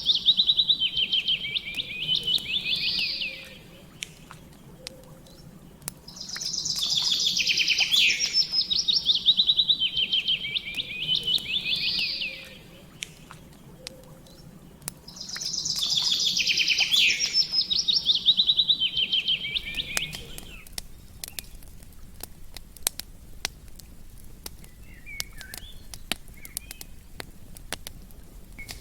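A songbird singing a fast, high trilling phrase three times, each lasting about four to five seconds and coming about nine seconds apart, over a steady low background. The song stops about two-thirds of the way through, leaving scattered sharp clicks and pops like a campfire crackling.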